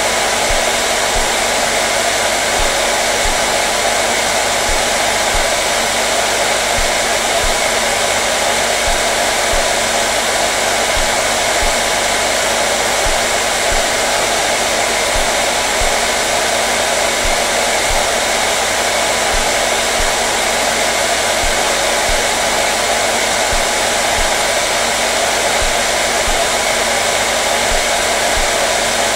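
Hair dryer running steadily, a constant airy whoosh of fan and motor with no change in speed.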